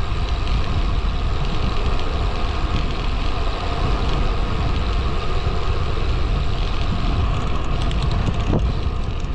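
Steady, loud wind rumble and riding noise on the microphone of a road bike under way.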